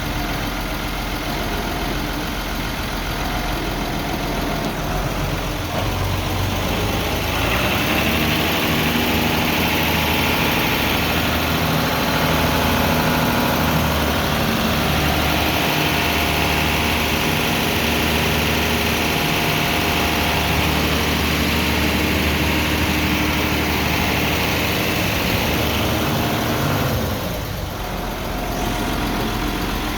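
Hino Ranger's H07C inline-six diesel engine running at idle. About seven seconds in its note grows heavier, with a higher whine over it, and near the end it drops back to the plain idle.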